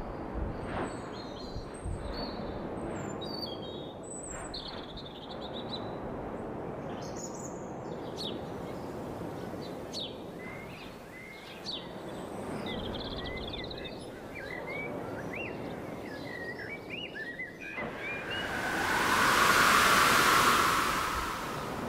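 Outdoor ambience of small birds chirping in short, quick calls over a steady background hiss. About eighteen seconds in, a loud rush of noise carrying a ringing tone swells for about three seconds and then fades.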